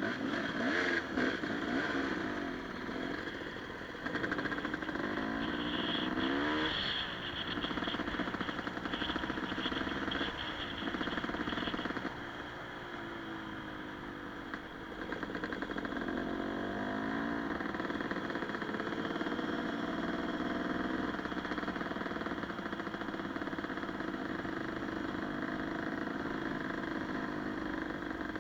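Enduro dirt bike engine running under load, revving up and dropping back again several times.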